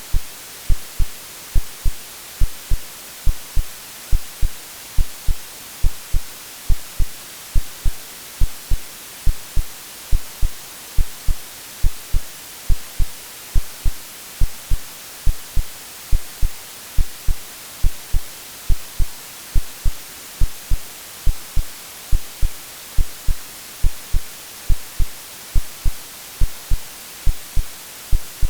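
Synthesized heartbeat of soft low thumps repeating at a steady, even pace over continuous white noise with a bright, even hiss: an AI-generated womb-like sleep sound for babies.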